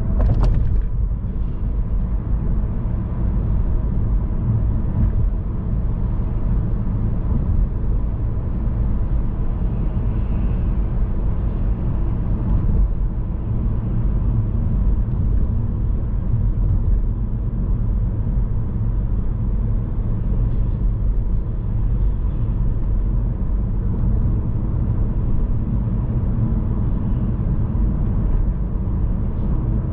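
Steady low road and engine rumble of a car driving, as heard inside the cabin. A brief sharp click or tick sounds about half a second in.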